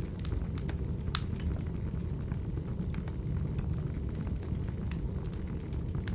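Wood fire burning: a steady low rumble of flames with irregular sharp crackles and pops from the burning logs, one louder pop about a second in.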